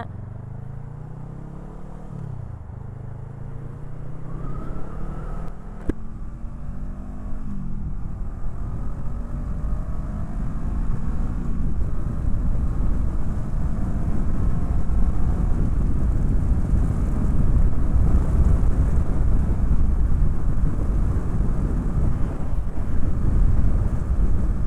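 Honda Rebel 500's parallel-twin engine accelerating through the gears, its pitch climbing and then dropping at each shift. Wind noise then grows louder and covers the engine as speed builds.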